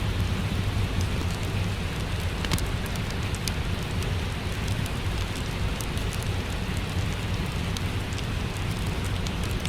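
Steady rain falling, with a low rumble beneath it, while a fireplace crackles with scattered small pops.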